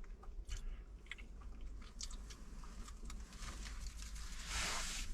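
Close chewing and biting of a griddle-warmed cornmeal cake, with small crisp clicks. A short, louder hiss about four and a half seconds in.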